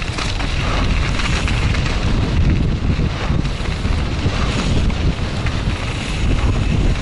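Wind buffeting a helmet camera's microphone as a mountain bike rides fast downhill, with the tyres rumbling and knocking over the dirt trail.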